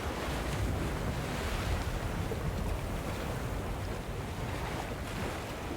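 Ocean surf washing steadily, mixed with wind.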